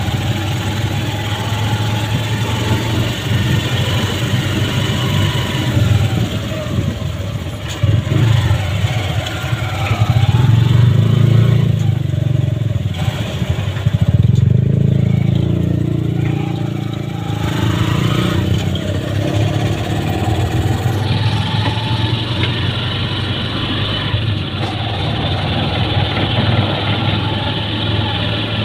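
Motorcycle engine of a tricycle running under way, heard from inside its sidecar, with its pitch rising and falling as it speeds up and eases off, loudest about a third of the way in and again near the middle.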